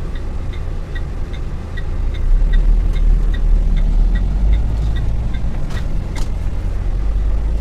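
Dongfeng truck's diesel engine running while driving, heard from the cab, pulling louder about two seconds in. A regular light ticking, about three a second, runs alongside and stops about five seconds in, followed by a couple of short clicks.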